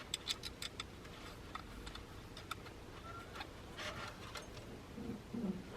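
Light clicks and taps of small gauge-install parts being handled: a quick run of several in the first second, and more near four seconds in.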